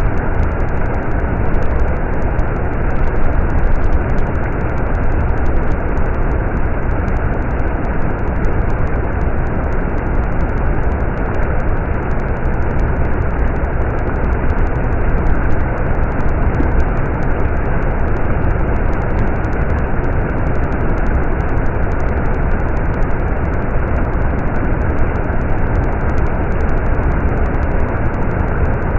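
A stream of running water flowing steadily: a loud, unbroken rush, deepest at the low end.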